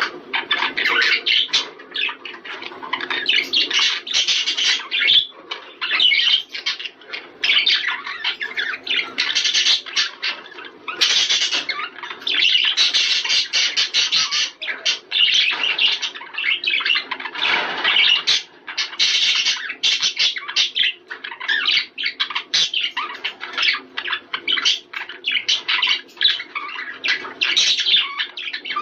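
A flock of budgerigars chattering and warbling densely and without pause, the kind of breeding-stimulation chatter played to pet budgies to bring them into breeding condition.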